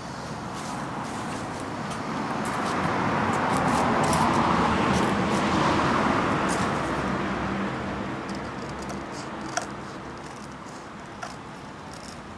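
Small homemade disc sander running. Its rushing noise swells over the first few seconds, is loudest about four to six seconds in, then dies back down, with two small clicks near the end.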